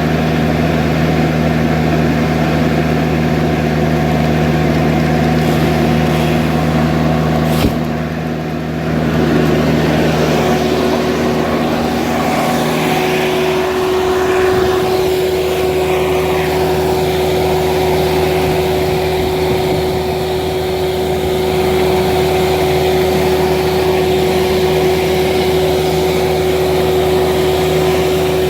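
Skid steer loader's engine running steadily, with one sharp knock about a quarter of the way in. Partway through, a steady higher whine joins the engine sound.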